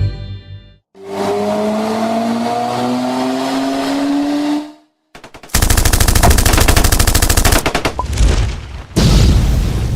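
Cartoon sound effects: a rising, engine-like whine for about four seconds, then a rapid rattle like machine-gun fire for about three seconds, with another loud burst near the end.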